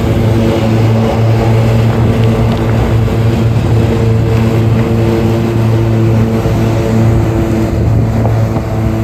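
Lawn mower engine running steadily at an even pitch.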